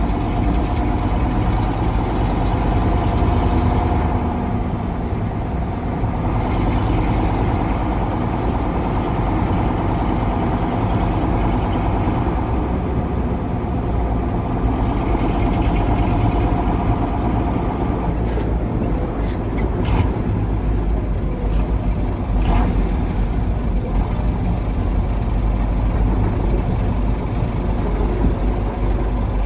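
A 1985 KAMAZ 4310 6x6 military truck's V8 diesel engine running steadily under way while driving, with its pitch drifting slightly. There are a few sharp knocks or rattles about two-thirds of the way through.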